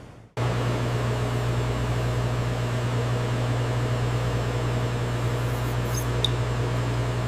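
Steady hum of factory processing machinery, with a strong low drone and a few steady tones above it, starting abruptly at a scene change just after the start; a faint tick about six seconds in.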